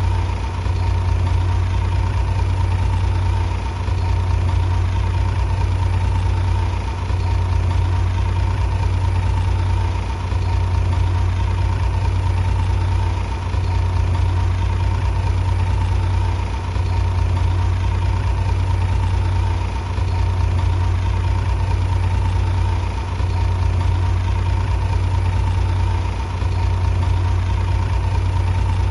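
Bulldozer's diesel engine running steadily with a deep hum and a faint steady whine, dipping slightly about every three seconds.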